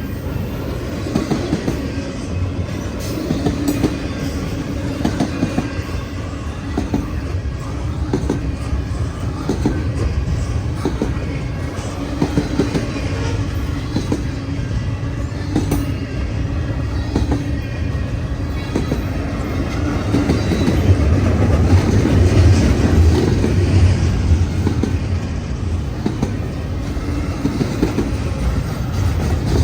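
Freight train rolling past, with a steady rumble and its wheels clacking over the rail joints, growing a little louder past the middle.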